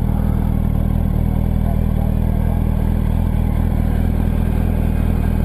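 Yamaha R1's inline-four engine idling steadily.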